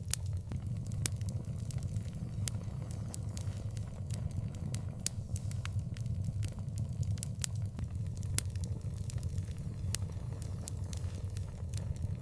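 Outdoor bonfire crackling, with frequent sharp, irregular pops over a steady low rumble.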